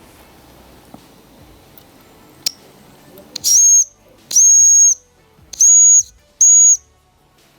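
Whistle of a Mamod TE1A toy steam traction engine, blown in four short blasts, each a shrill high tone with steam hissing around it. A sharp click comes just before the first blast.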